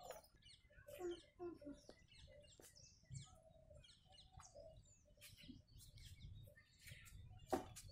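Faint birds chirping in many short calls, with a sharp click near the end.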